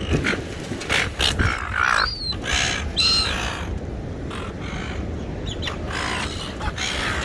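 Gulls calling with short harsh squawks and cries, a cluster of them about two to three seconds in, over a steady low rumble.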